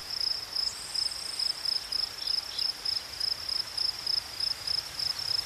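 Steady high-pitched chirping, like a cricket's, pulsing about five times a second, with a brief higher buzz about a second in.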